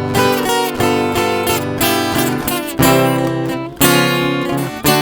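Instrumental break of a sertanejo/caipira song: viola caipira and acoustic guitar strummed and picked in a steady rhythm between sung verses.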